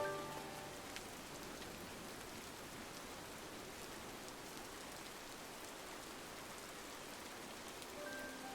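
Steady rain pattering on a window: an even hiss with a few faint ticks. Soft music notes fade out in the first half second and start again near the end.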